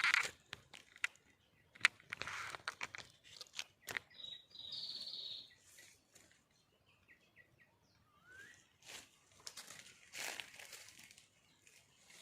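A high bird chirp lasting about a second and a half, about four seconds in, amid rustling and scattered clicks.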